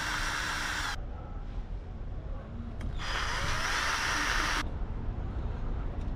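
Power drill-driver spinning, plausibly backing out the carburettor's mounting bolts: it stops about a second in, then runs again for about a second and a half around three seconds in.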